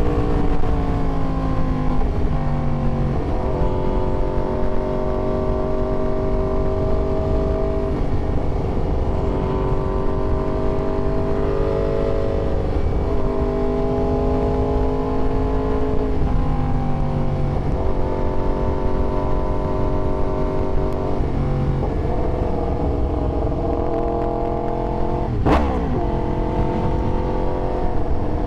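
Yamaha YZF-R1 inline-four engine running under way, its pitch falling over the first few seconds, then holding and climbing gently in stretches broken by several sudden changes in engine speed. There is a sharp click about 25 seconds in.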